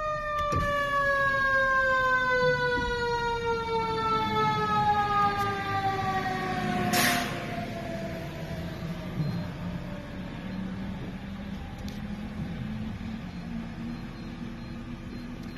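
Fire engine siren winding down in one long, slowly falling tone that fades out over about ten seconds, over the steady rumble of the truck's engine. A short hiss sounds about seven seconds in.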